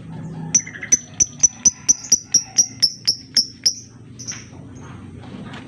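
Lovebird giving a fast run of sharp, high chirps, about four a second, that fade out after a few seconds, followed by a short harsh rasp near the end.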